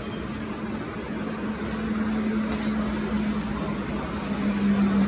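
MiG-29 jet engines running steadily: a continuous drone with a low steady hum that drops slightly in pitch about four seconds in.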